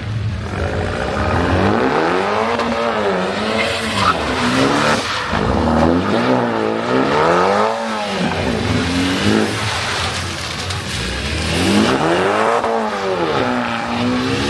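A car engine revved hard again and again, its pitch climbing and dropping back in long sweeps about three times, over a steady hissing noise.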